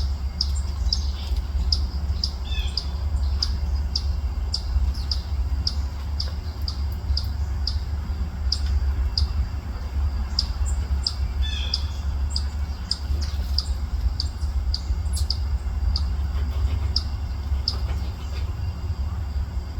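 A songbird repeating one short, high chip note about twice a second, with another bird giving a brief falling call twice, over a steady low rumble.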